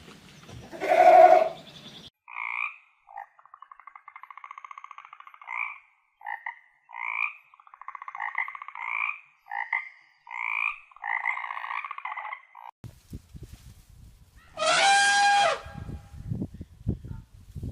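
A bleat about a second in, then a frog croaking: a run of short buzzy calls and trills repeating for about ten seconds. Near the end comes one loud, short animal call.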